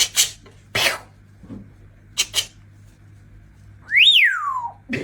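A parrot gives one loud whistle that slides up and then back down in pitch, about four seconds in, after a few short sharp clicking sounds.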